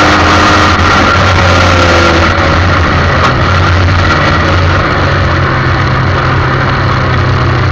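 Formula 1600 single-seater race car engine running loud and steady under way, heard from on board the car.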